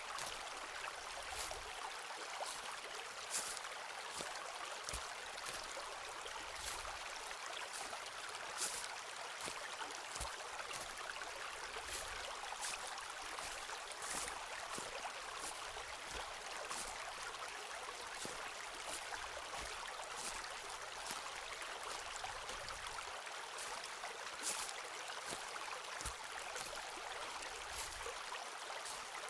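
Footsteps on a forest path, a crunch or crackle every second or two, over a steady rush of a stream.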